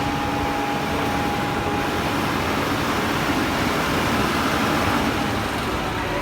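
A large machine's engine running steadily, a dense even noise with a faint steady whine over it.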